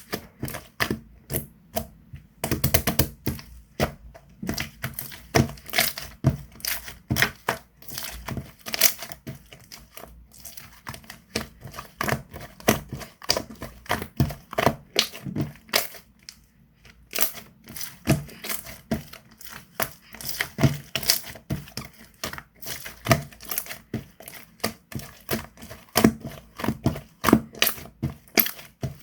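Hands squishing, pressing and stretching slime, giving quick irregular clicks and pops, several a second, with a short quieter pause about halfway through.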